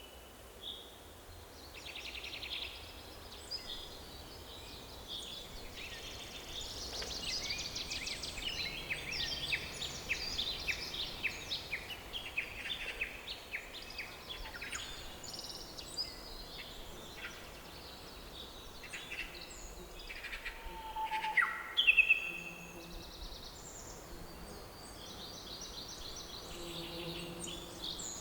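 Several songbirds singing and chirping together in a forest, overlapping trills and chirps throughout, with a louder burst of calls about three quarters of the way through.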